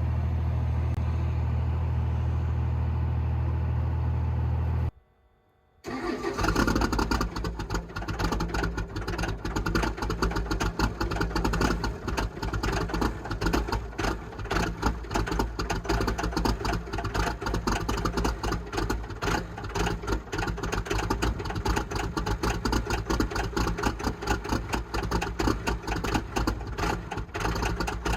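A steady low drone, then after a one-second break a 5.9 Cummins turbo-diesel running with a loud, dense, rapid clatter.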